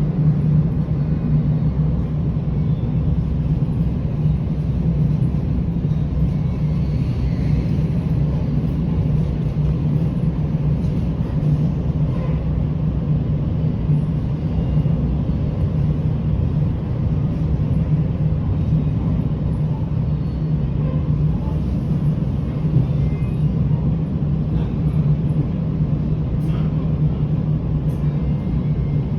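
Train running along the track, a steady low rumble that holds even throughout.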